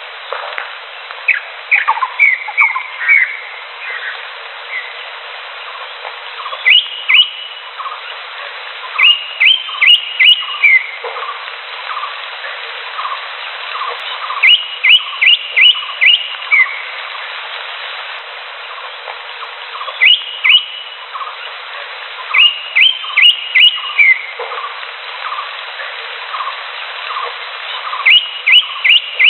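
Greater green leafbird (cucak hijau) calling: bursts of two to five quick rising whistled notes, repeated every few seconds, with fainter, lower chirps in between over a steady background hiss.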